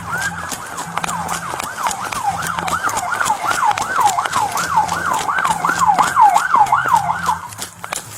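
Police car siren in a fast yelp, its pitch rising and falling about three times a second, cutting off suddenly near the end.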